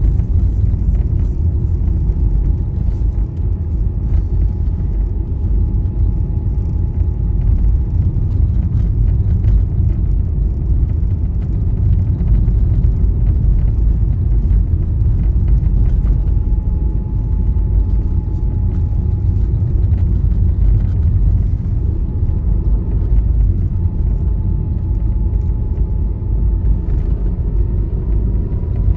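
Steady low rumble of a vehicle driving along a highway, with a faint steady whine that rises slightly in pitch near the end.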